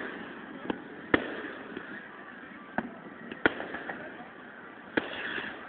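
Fireworks shells bursting: about five sharp bangs at uneven intervals over steady background noise, the loudest about a second in, at three and a half seconds and at five seconds.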